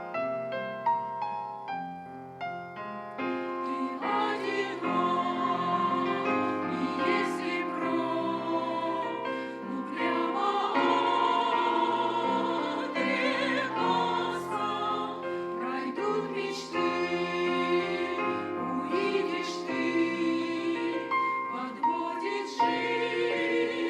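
Piano playing alone for a few seconds, then a mixed church choir comes in about four seconds in and sings a hymn over the piano accompaniment.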